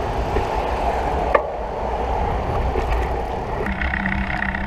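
Wind buffeting the microphone of a camera on a moving bicycle, a steady rumbling rush, with a single click about a second and a half in. A steady pitched hum joins near the end.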